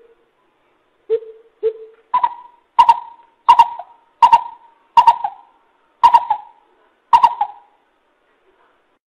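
Coucal (bubut) hooting: two low hoots, then a slower series of about eight higher-pitched hoots, roughly 0.7 seconds apart.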